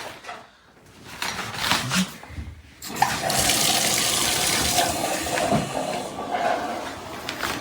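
Shower turned on: about three seconds in, water starts spraying with a steady hiss from a 12-inch rainfall shower head. The rain head is filling and beginning to pour onto the shower floor.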